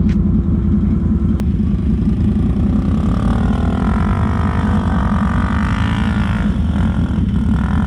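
ATV engine running under a steady low rumble, its engine note swelling and shifting in pitch for a few seconds in the middle, then dropping back.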